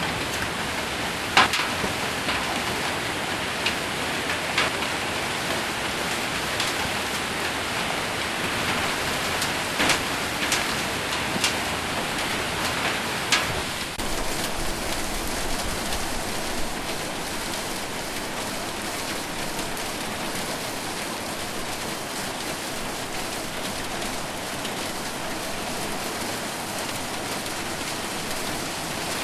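Heavy rain with hail drumming on a roof: a steady hiss of rain with sharp single impacts of hailstones scattered through the first half, fewer after about halfway.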